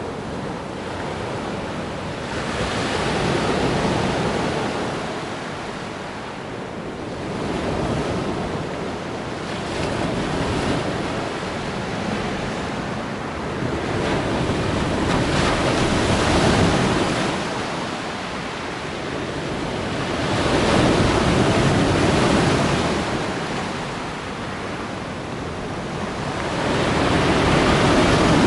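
Sea waves breaking and washing on the shore, the surf swelling and falling back every five to seven seconds, with some wind buffeting the microphone.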